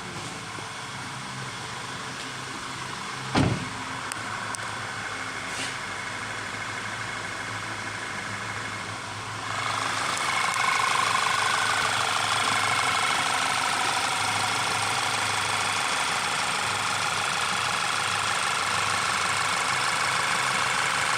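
Volkswagen Tiguan engine idling steadily. A single sharp thump a few seconds in is the loudest moment; about nine seconds in the sound steps up, louder and brighter, and stays steady.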